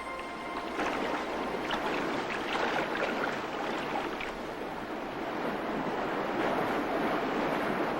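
Steady wash of rushing water noise, as of a current moving underwater, getting louder about a second in.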